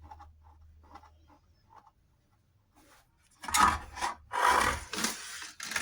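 Whirlpool washing-machine transmission giving a harsh rasping, grinding noise in four or five bursts with short gaps, starting about halfway through, after a few faint clicks; the technician finds its bearings worn.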